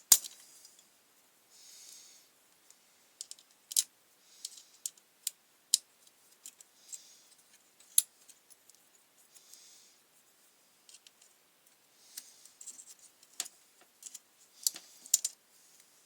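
Small hand tools and metal parts clicking and scraping against a grass trimmer's engine housing as it is taken apart, in irregular sharp clicks with short scrapes between them.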